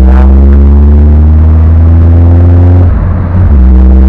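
Golf 1's 2.0 8-valve four-cylinder on Weber 40DCOE carburettors and Supersprint exhaust, accelerating hard with its pitch climbing steadily. About three seconds in it drops off briefly for a gear change, then climbs again.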